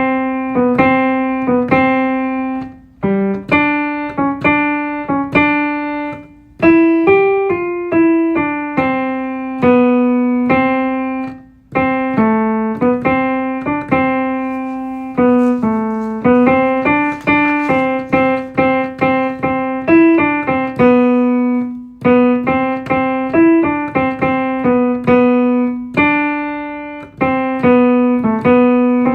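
Keyboard playing the vocal part as a single-note melody line in a middle register, one note at a time, each note struck and fading, with a few short breaks between phrases.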